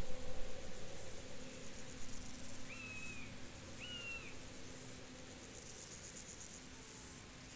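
Field insects chirring in a high-pitched, pulsing chorus, with two short whistled bird calls about three and four seconds in. A low rumble fades out over the first couple of seconds.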